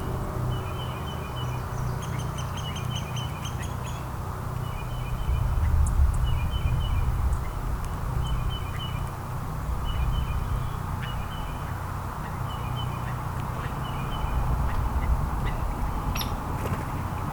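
Small songbirds chirping: short clusters of quick, high chirps repeating every second or two, over a steady low rumble.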